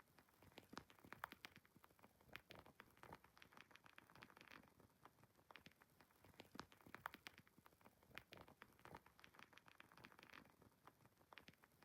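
Wood fire crackling faintly: many small irregular pops and snaps over a soft hiss, a few sharper pops standing out.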